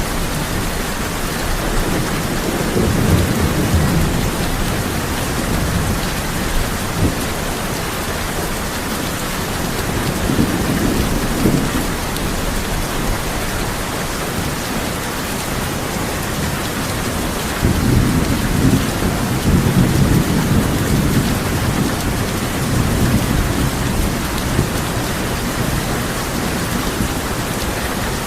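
Steady heavy rain on a tin roof with rolls of low thunder rumbling several times, the biggest about two-thirds of the way through.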